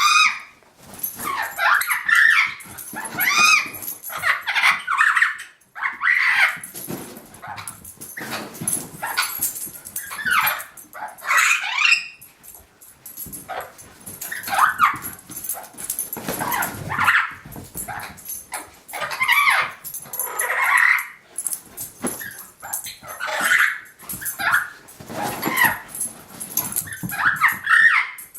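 A puppy yipping and barking in short, high calls, over and over at an uneven pace, as it plays at chasing.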